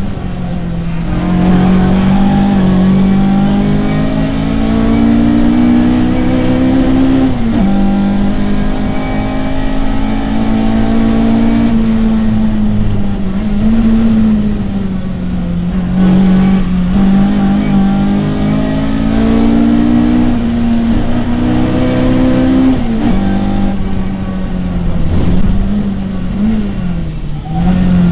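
Rally car engine heard from inside the cabin, driven hard along the stage. Its pitch climbs under acceleration and drops back several times as the driver shifts gears and lifts for corners.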